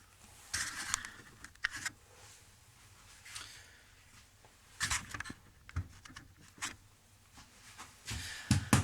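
Handling noises at a workbench: a scattering of light knocks and clicks with a few short scrapes and rustles as objects are moved and set down.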